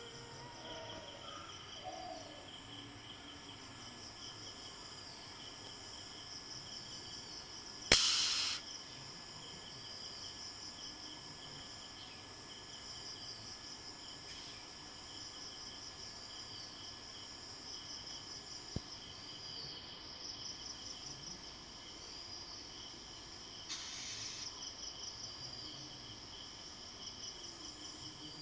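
Insects chirring steadily in a high, pulsing chorus. About eight seconds in there is a sharp knock followed by a brief hiss, and another short hiss comes near the end.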